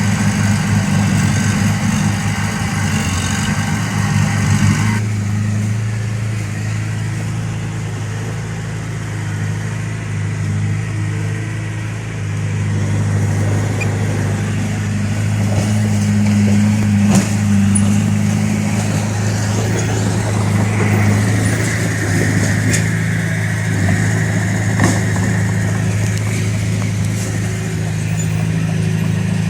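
Heavy diesel engine of a bulldozer running steadily, with scattered short metallic clicks. Its higher, busier sound drops away abruptly about five seconds in, leaving the low engine note.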